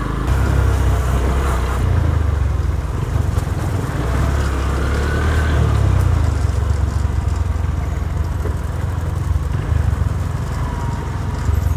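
Honda New Mega Pro motorcycle's single-cylinder engine running steadily under way, a low rumble with no sharp revving.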